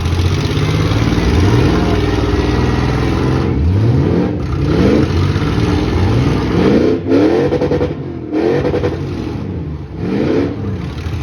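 Racing trucks and vans running hard around the track, several engines revving up in repeated rising sweeps as they accelerate past.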